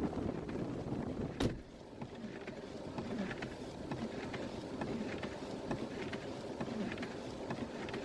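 Jeep Wrangler running in blizzard wind: a steady low rumble of engine and wind, with one sharp click about a second and a half in.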